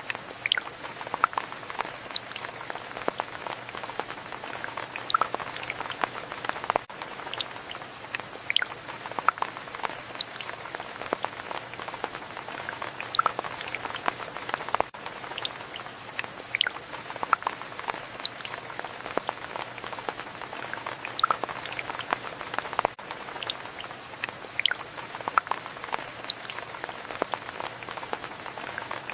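Steady rain falling, with many scattered individual drops pattering and dripping on a surface; the recording repeats as a loop about every eight seconds.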